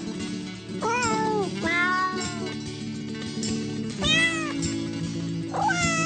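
Domestic cat meowing four times, each call rising then falling in pitch, over steady background music.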